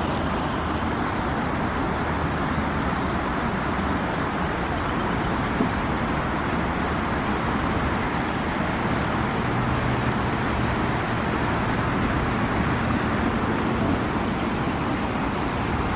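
Steady, unbroken rushing of heavy rain and flooding water, an even hiss with no breaks.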